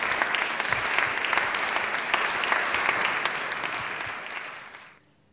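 Audience applauding, dying away over the last second or so into near silence.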